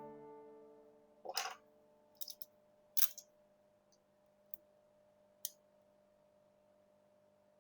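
A handful of short, sharp clicks and taps of small tools and phone parts being handled, spaced irregularly over a few seconds. The tail of a music note fades out at the start.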